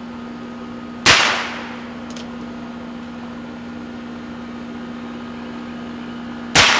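Two shots from a Heritage Rough Rider .22 rimfire single-action revolver, about five and a half seconds apart, each a sharp crack with a short echo. A steady air-conditioner hum runs underneath.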